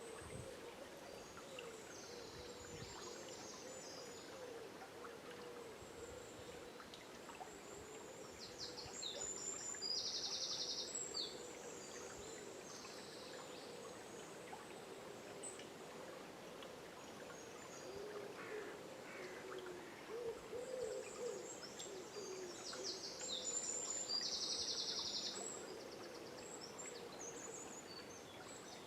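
Dawn forest chorus over the steady hiss of river water: a low, wavering bird call repeats throughout, and songbirds sing high trilling phrases that are loudest about ten seconds in and again near the end.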